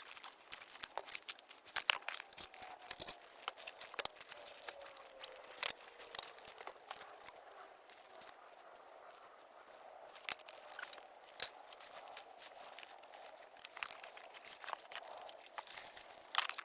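Handling noise: scattered sharp clicks and taps with some crinkling and rustling, as of packaging and small parts being handled.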